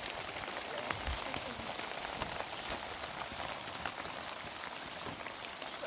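Steady rain falling, with many small drop impacts ticking on a surface.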